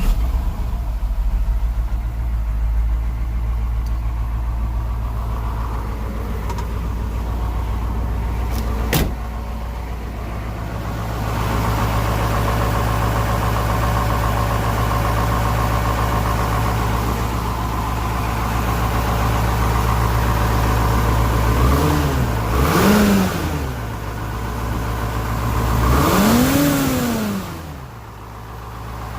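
Detroit Diesel 8.2L V8 diesel engine catching and running at idle, with a single sharp click about nine seconds in and the idle picking up a little around eleven seconds. Near the end it is revved three times, two quick blips and then one longer rise and fall, running smoothly with no misfire yet.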